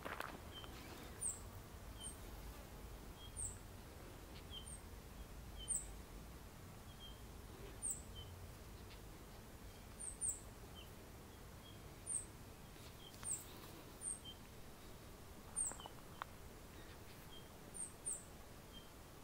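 Fledgling songbird giving begging calls: short, thin, high chirps repeated every second or so, sometimes in quick pairs, over a faint outdoor background.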